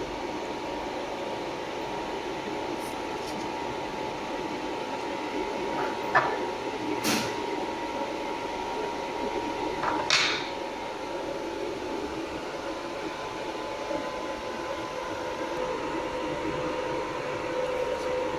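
Jewelry laser welding machine running with a steady hum, with a few sharp clicks, the loudest about six seconds in.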